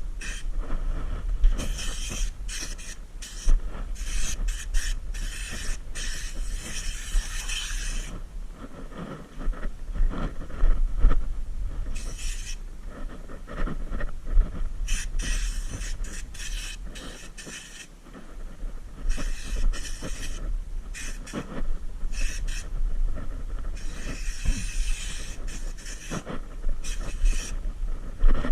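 Air-powered spray gun hissing in repeated short bursts as it is triggered on and off, spraying Noxudol rust-proofing coating onto a car's underbody, over a low steady hum.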